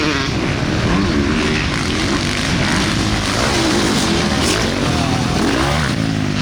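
Several motocross dirt bikes racing around a track, their engines revving up and dropping back in overlapping rising and falling tones as riders work through the gears.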